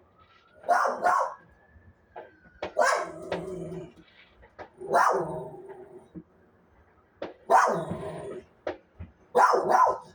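A dog barking in repeated bursts, five in all, about one every two seconds.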